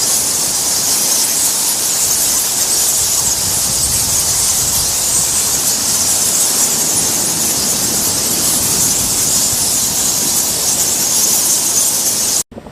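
A loud, steady hiss with no pitch, strongest in the high range, that cuts off suddenly near the end.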